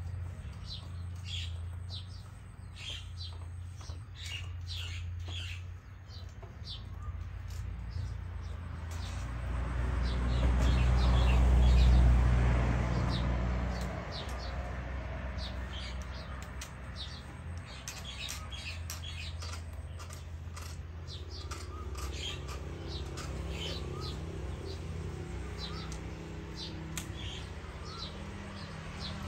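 Small birds chirping in many short high calls over a steady low hum. A low rumble swells up and fades away around the middle and is the loudest sound.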